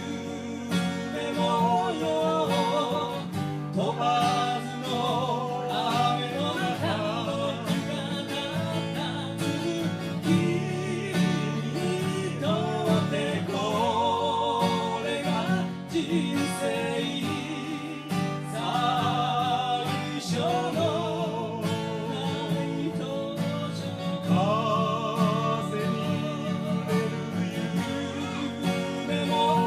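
A live folk band playing a song led by acoustic guitar, with a melody line that wavers in vibrato over the accompaniment.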